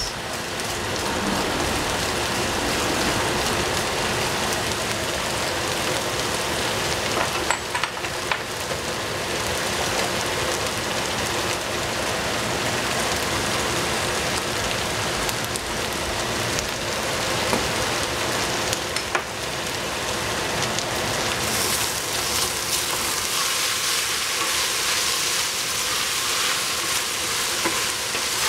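Julienned potato and celery sizzling steadily in a hot stainless steel pot, with a few light clicks of a spatula and shaker. About three-quarters of the way in the sizzle turns hissier.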